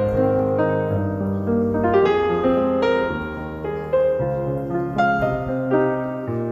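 Background piano music: a gentle melody of sustained, overlapping notes.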